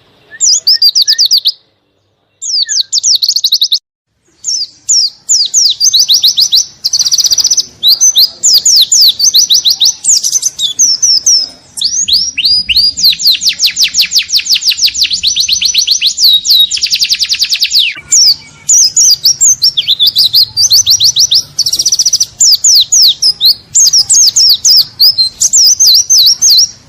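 Pleci (white-eye) singing loudly in rapid runs of high, quickly falling chirping notes, with short pauses in the first few seconds and one long unbroken fast run in the middle.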